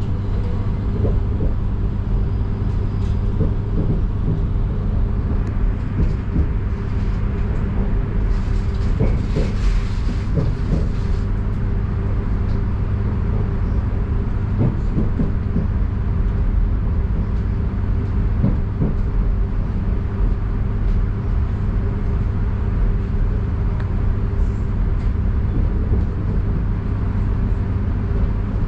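Passenger train running along the line: a steady rumble with a constant low hum and faint clicks of the wheels on the rails. A brief rushing hiss rises over it about eight seconds in and fades after a few seconds.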